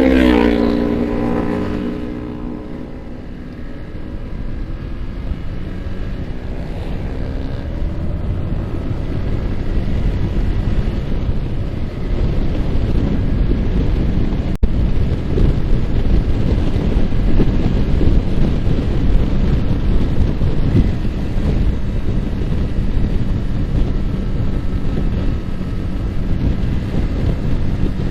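Yamaha R15's single-cylinder engine note dropping in pitch as the throttle closes, then a steady rush of wind on the microphone that grows louder as the bike gathers speed. A single sharp click about halfway through.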